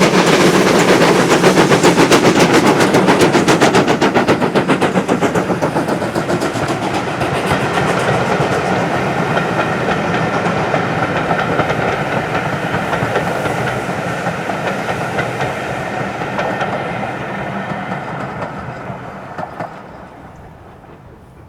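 Steam locomotive working hard under load, with rapid, even exhaust beats and clattering wheels. It starts loud and fades steadily as the train pulls away.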